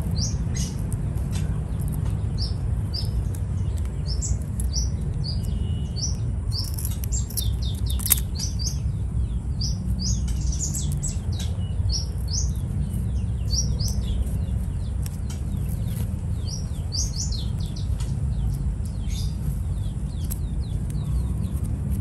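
Bird chirping: short high chirps repeated many times, in runs, over a steady low rumble, with one sharp click about eight seconds in.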